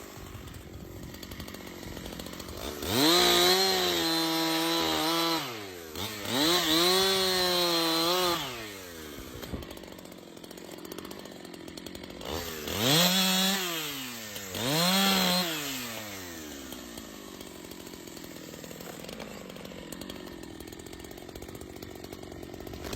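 Chainsaw engine revved up to high speed four times, each burst held for one to two and a half seconds before it drops back to idle, then idling steadily for the last several seconds.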